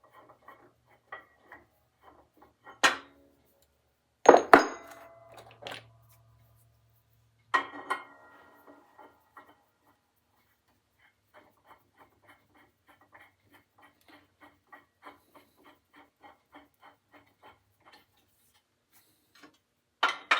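Metal tools and parts being handled on a workbench: scattered clicks and a few sharp metallic clanks, the loudest about four and a half seconds in, then a long run of light, evenly spaced ticks, about two to three a second.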